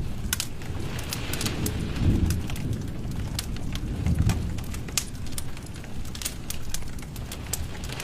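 Wood fire in a fireplace crackling, with sharp pops scattered irregularly over a low rumble of the flames that swells about two seconds in and again around four seconds.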